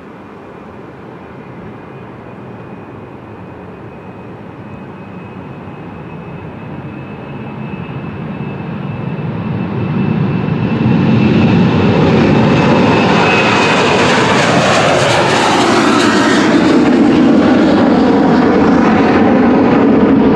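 Jet aircraft engines growing steadily louder over about ten seconds as the plane approaches, with a high whine at first, then a loud, steady engine sound as it passes close by.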